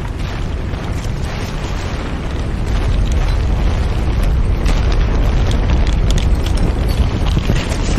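Earthquake sound effect: a continuous deep rumble with scattered crackles and knocks over it, growing louder about three seconds in.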